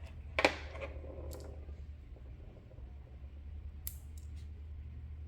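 Clicks and taps of small plastic and metal RC car parts being handled during disassembly: a sharp click about half a second in and another near four seconds, with fainter ticks between, over a steady low hum.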